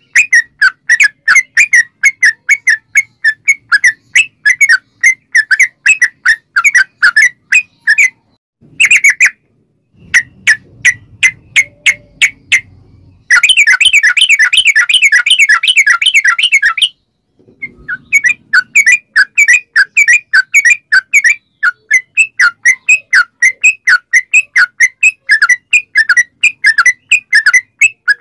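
Yellow-vented bulbul (trucukan) calling in long runs of quick, loud chattering notes, about three a second. In the middle there is a brief stretch of faster, unbroken notes that stops suddenly.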